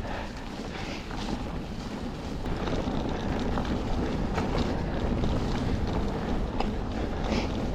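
Wind buffeting a GoPro action camera's microphone over a low steady rumble, with scattered light clicks and rattles.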